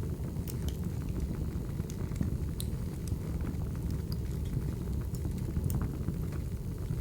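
Firewood burning in a fire: a steady low rush with scattered sharp crackles and pops.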